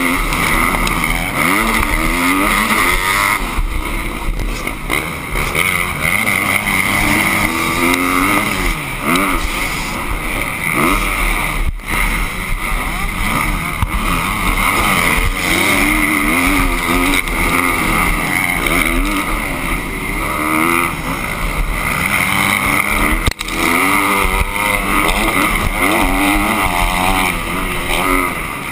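Motocross dirt bike engines revving up and down again and again, their pitch rising and falling as the bikes accelerate and back off.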